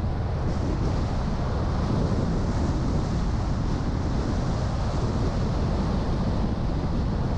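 Steady driving noise of a car on the move: an even low rumble of tyres and engine with wind noise on the microphone, unchanging throughout.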